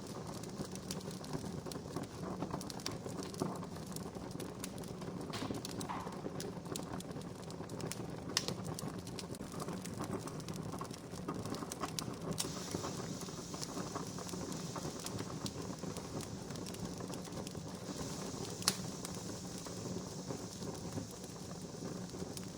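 Wood fire crackling steadily, full of small snaps, with two sharper pops. A soft hiss joins about halfway through.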